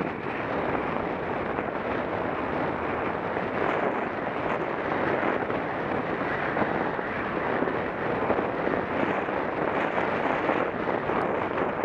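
Steady rushing wind noise on an action camera's microphone while cycling at speed.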